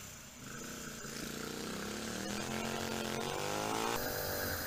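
Motorcycle engine accelerating, its pitch rising steadily over about three seconds. The sound changes abruptly near the end.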